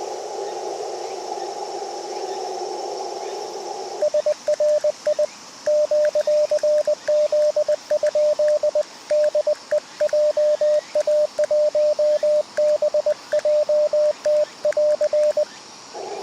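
Amateur radio transceiver in CW mode: receiver hiss through a narrow CW filter, then Morse code sent as a single steady-pitch sidetone beep keyed on and off for about eleven seconds. The receiver hiss mutes while the code is sent and comes back near the end, as when the station's own transmission is heard through the sidetone.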